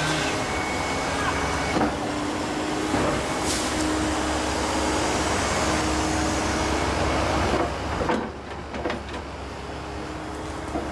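Volvo ECR145EL excavator's diesel engine running under hydraulic load with a steady whine, and several sharp knocks about 2, 3 and 8 seconds in. The level drops about 8 seconds in as the machine eases off.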